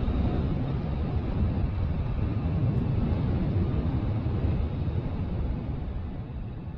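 Wind rumbling over the microphone of a moving vehicle, with road noise underneath; it eases off near the end.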